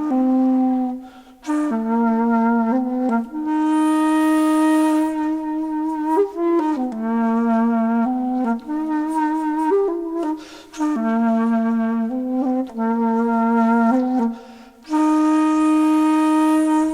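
Background music: a solo flute-like wind instrument playing a slow melody of long held notes with vibrato, with breath noise on the longest notes.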